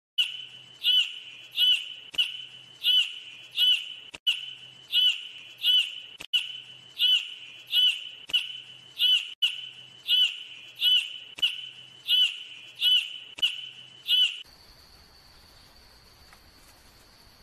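A bird calling over and over, one sharp call roughly every 0.7 seconds over a steady high-pitched hum. The calls stop abruptly about 14 seconds in, leaving a faint, steady, high-pitched insect-like drone.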